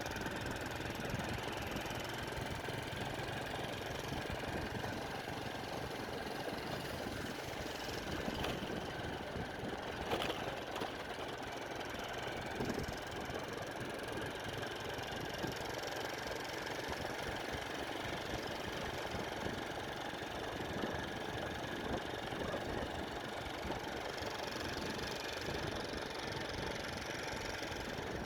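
Motorbike engine running steadily under way, with wind noise over it.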